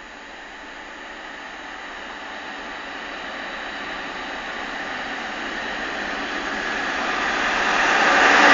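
SNCF BB 60000 diesel locomotive hauling a freight train, approaching and growing steadily louder throughout.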